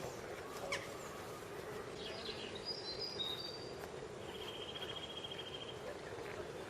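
Small birds chirping outdoors over a steady background hum: a few short high chirps about two seconds in, then a fast high trill lasting over a second near the middle.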